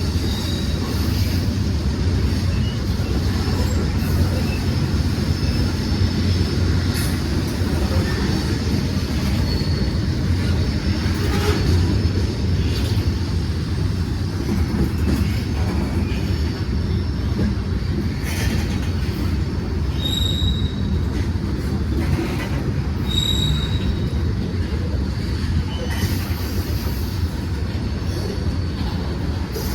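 Union Pacific freight train rolling past: a steady low rumble of wheels on rail with scattered clicks, and two brief high wheel squeals about two-thirds of the way through.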